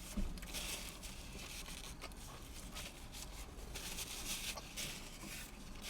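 Faint, irregular soft sounds of a man eating a Whopper burger: chewing with light rustling, coming and going in short patches.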